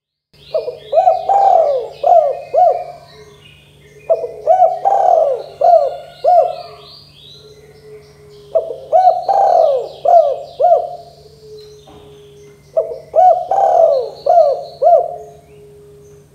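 Spotted dove (tekukur) cooing: four repeated song phrases a few seconds apart, each a run of several rising-and-falling coos. Higher chirping and a low steady hum run beneath.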